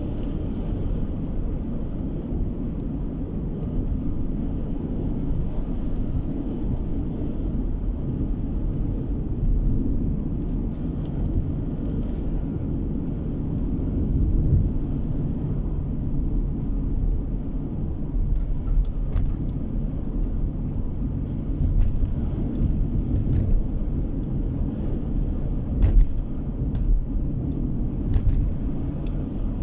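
Car driving on the road, heard from inside the cabin: a steady low rumble of tyre and engine noise, with a few brief knocks or clicks in the second half, the strongest about 26 seconds in.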